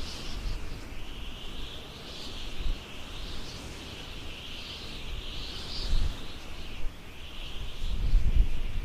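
Outdoor nature ambience: a continuous high-pitched chorus that swells and fades every second or two, with low wind rumble on the microphone at the start and again near the end.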